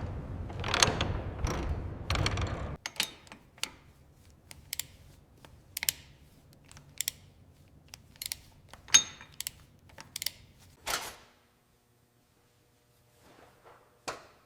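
Workshop hand-tool noise on metal parts: a rough rubbing or scraping for the first few seconds, then a string of irregular sharp clicks and clinks about every half second to a second, stopping about eleven seconds in.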